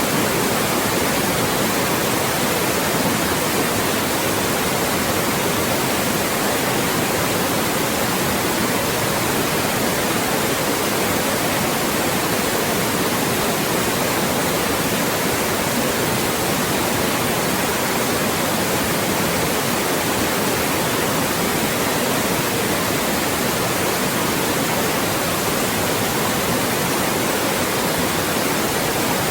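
Loud, steady white noise: an even hiss across the whole range, constant in level with no changes.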